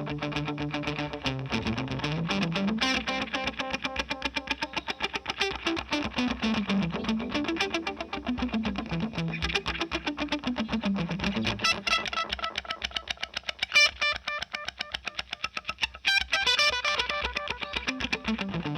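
Distorted electric guitar played through a Benson Delay pedal with its tap tempo set very fast, giving rapid fluttering repeats; low notes slide slowly up and down in pitch several times, with higher chords ringing out near the end.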